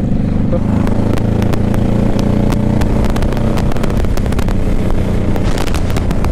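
Motorcycle engine running at a steady speed while riding, with many short clicks and crackles over it.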